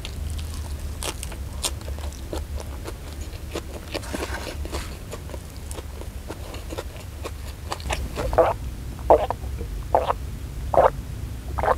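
Close-miked chewing of a mouthful of raw leafy vegetable (lalapan) and rice, with small wet mouth clicks. About eight seconds in, a run of about six gulps as water is swallowed from a glass jug.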